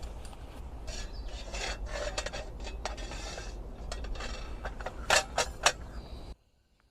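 Rasping, scraping strokes mixed with sharp clicks and knocks, like hands working hard objects, which cut off abruptly a little after six seconds.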